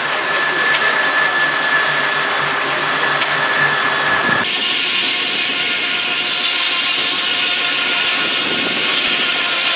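Sawmill running: a steady mechanical din with a held whine, which changes abruptly about four and a half seconds in to a brighter, hissier sawing sound.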